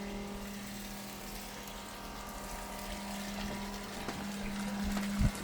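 Self-priming freshwater pump running with a steady hum as it pushes water through the filtration system, with a single thump near the end.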